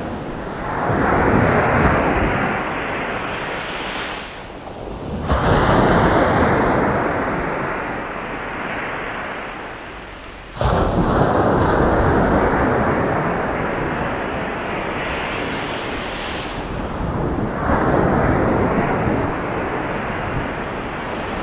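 Sea waves breaking on a sandy beach and washing up the shore, a new wave about every five to six seconds; one crashes in suddenly about halfway through. Wind rumbles on the microphone underneath.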